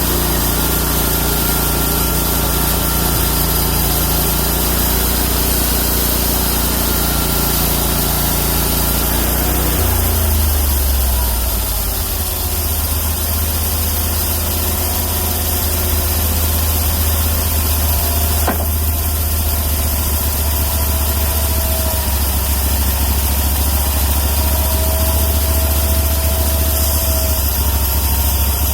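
The homemade bandsaw mill's 31 hp engine runs at speed, then its pitch drops about ten seconds in as it slows to a steady idle.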